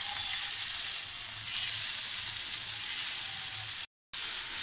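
Paneer cubes sizzling as they fry in hot oil in a non-stick pan, a steady high hiss that cuts out for a moment near the end.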